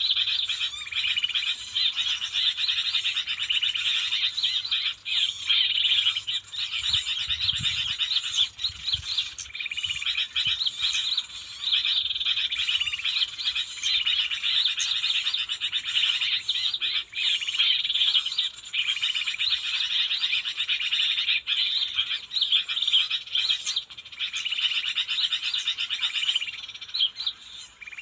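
A dense, unbroken chorus of high chirping and trilling animal calls, many overlapping at once. A few low thuds come about seven to nine seconds in.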